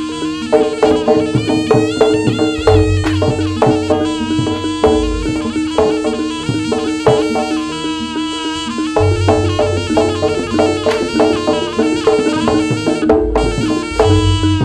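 Live Javanese jaranan ensemble music, instrumental: drums and struck gongs keep a dense beat under a sustained drone and a reedy wind melody.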